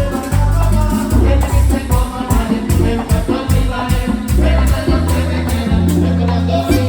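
Live merengue band music, with heavy bass notes under a steady metal güira scrape marking the beat.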